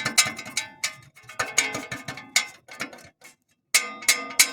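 Loose sheet-metal exhaust heat shield, on the pipe to the catalytic converter, moved by hand and clanking in a quick, irregular series of ringing metallic rattles, with a short pause about three seconds in. Its lower fastening has worked loose with wear, which is what makes the car's rattle.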